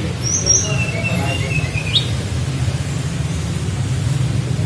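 Tledekan flycatcher singing in its flute-like 'nyuling' style: a couple of high chirps, then a level whistle about a second long that ends in a quick upward sweep. A steady low hum runs underneath.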